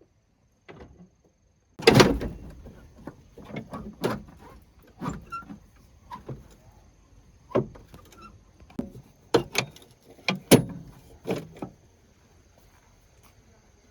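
A run of about a dozen irregular knocks and clanks from hand work on a truck, as tools and parts are handled, the loudest about two seconds in and again past the ten-second mark.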